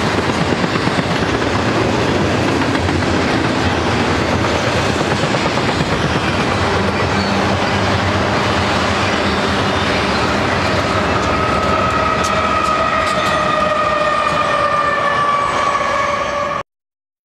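Double-stack intermodal freight train rolling past: a steady loud rumble of wheels on rail with clickety-clack from the well cars. From about ten seconds in, a ringing tone that falls slightly in pitch rises above the rumble. The sound cuts off abruptly near the end.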